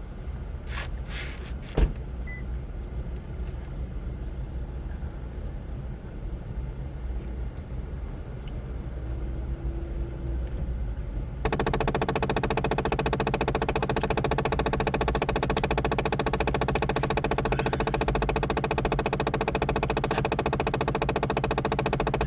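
Low rumble with a few sharp clicks in the first two seconds. About halfway through, a steady, fast-pulsing mechanical hum like an idling engine starts suddenly and runs on.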